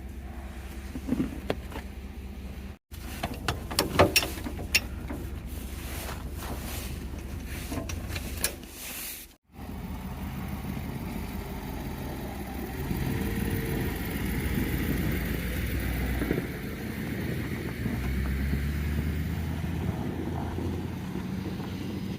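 A vehicle engine running steadily, with a scattering of sharp metal clicks and knocks a few seconds in.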